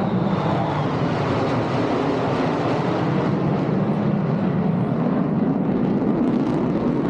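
Jet engine noise from an F-35A Lightning II's Pratt & Whitney F135 engine during a flight demonstration: a loud, steady rush of noise with no breaks.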